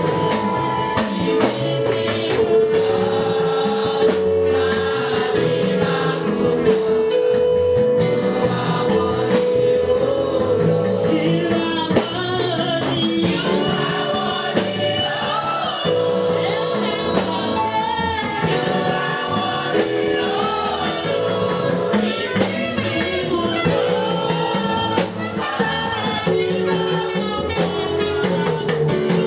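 Gospel worship music: a group of voices singing over an instrumental backing, with steady percussion hits throughout.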